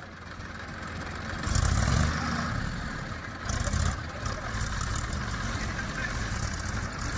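Tractor engine running under load, its low rumble swelling louder about a second and a half in and again near four seconds.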